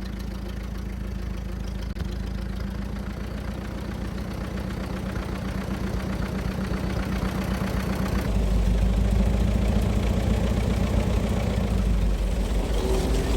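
1924 Fordson F tractor's four-cylinder engine running with an even, rapid firing beat. About eight seconds in it turns louder and deeper.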